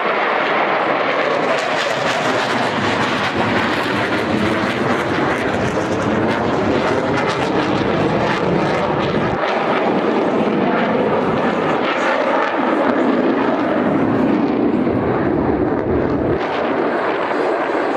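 Blue Angels jets flying past: loud, steady jet engine noise with a crackle in it.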